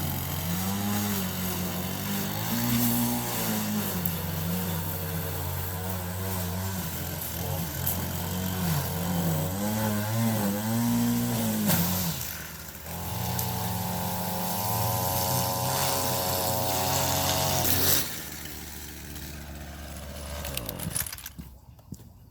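Honda HRX217 walk-behind mower's engine running, its pitch rising and falling, then holding steady before cutting off abruptly about 18 seconds in.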